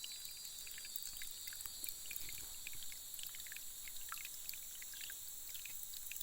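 Small forest stream trickling, with a steady high-pitched drone above it and many short scattered drips or chirps.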